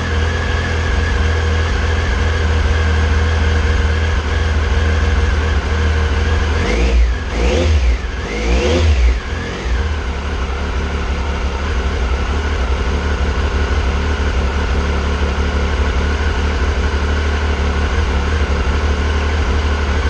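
2001 Triumph Sprint ST 955i's three-cylinder engine idling steadily, revved briefly with a few quick throttle blips about seven to nine seconds in, then settling back to idle. The engine is running after the fuel pump was primed following a fuel tank and fuel pump plate gasket refit.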